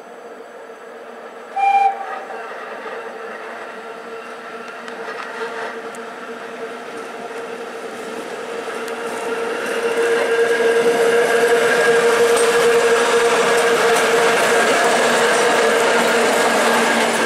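The Train Jaune, a metre-gauge electric railcar train, gives one short horn blast about two seconds in. It then draws nearer with a growing rumble of motors and wheels on rail, loudest over the last several seconds as the cars run close by.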